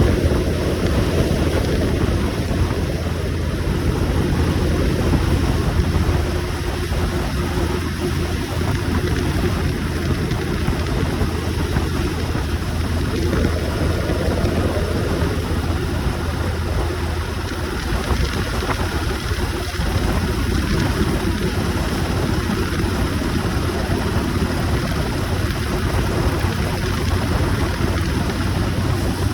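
Motorcycle riding at speed: a steady rush of wind noise on the microphone with the engine running underneath, swelling briefly about halfway through.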